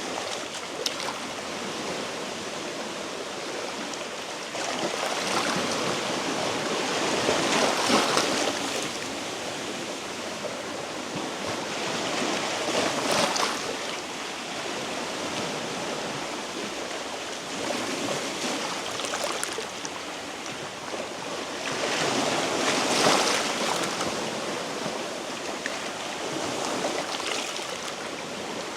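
Sea waves washing in over shoreline rocks, a steady wash that swells and falls back about every five seconds.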